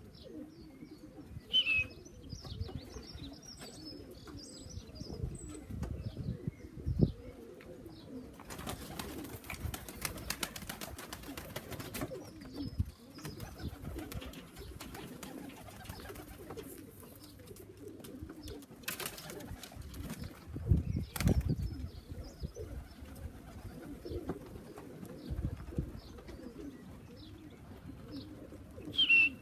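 Racing pigeons cooing, with a burst of wing-flapping lasting about three seconds starting nine seconds in, and another brief flurry near nineteen seconds, as young birds come down to land. High chirps and a few low thuds are mixed in.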